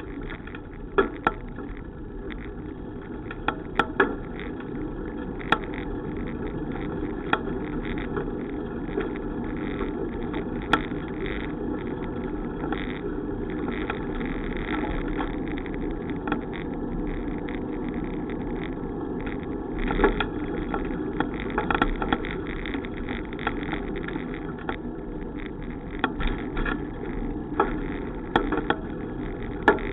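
Steady rolling and wind noise of a bicycle ride, with scattered sharp clicks and knocks from the bike.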